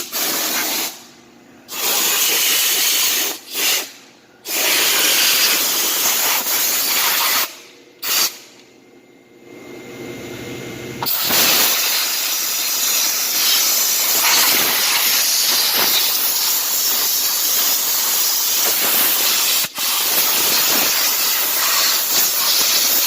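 Pressure washer spraying, a loud steady hiss of the water jet, cut off briefly several times as the trigger is released, with one longer pause of about three seconds near the middle before it runs on steadily.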